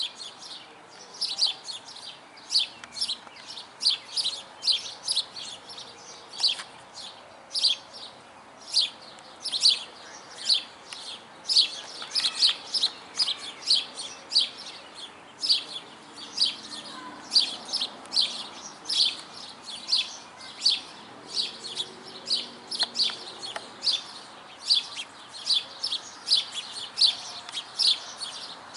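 Sparrows chirping: a steady stream of short, sharp chirps, about two a second, without a break.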